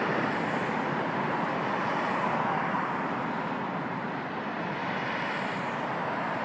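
Jet noise from an airliner on landing approach passing overhead: a steady noisy roar that eases slightly about four seconds in.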